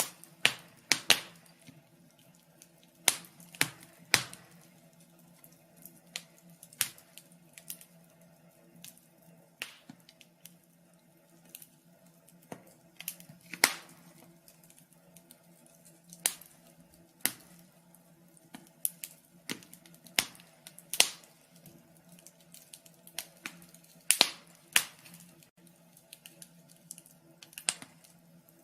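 Fire crackling: irregular sharp pops and snaps, some much louder than others, over a faint steady hum.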